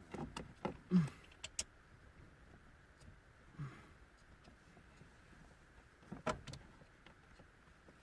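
Scattered clicks and knocks of hand tools and metal parts as bolts are fitted while reassembling a car's steering column and ignition lock, with a cluster in the first two seconds and a sharper knock near the end.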